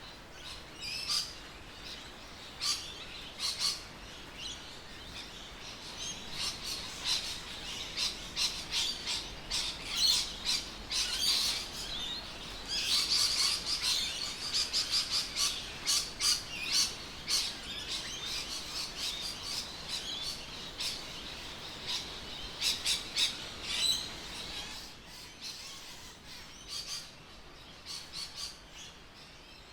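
Birds chirping, a rapid run of many short, sharp calls that is busiest in the middle and thins out near the end.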